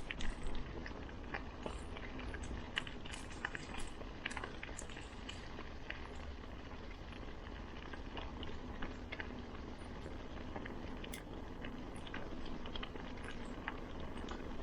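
Bicycle rolling over a rough track: a steady rumble from the tyres with many scattered clicks, crackles and rattles from grit and twigs under the wheels and the bike jolting.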